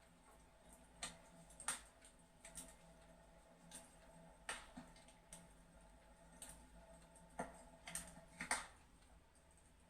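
Fireplace crackling: faint, irregular sharp pops and snaps, about one a second, unevenly spaced.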